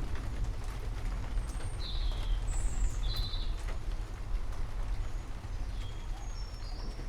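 Steady rain with drops tapping and a low continuous rumble underneath, with several short bird chirps between about two and three and a half seconds in and again near the end.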